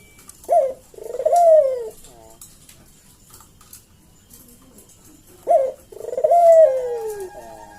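Barbary dove (burung puter) cooing twice, about five seconds apart. Each coo is a short rising note followed by a longer note that swells and then slides slowly down in pitch.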